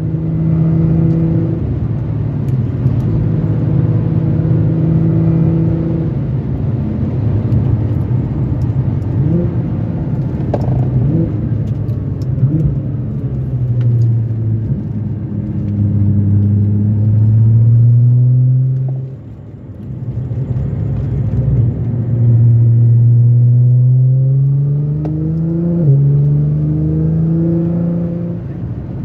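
Nissan GT-R's engine heard from inside the cabin on track: running steady at speed, then easing off as the car slows for a corner, then rising in pitch as it accelerates hard through the gears, with upshifts about two-thirds of the way in and near the end.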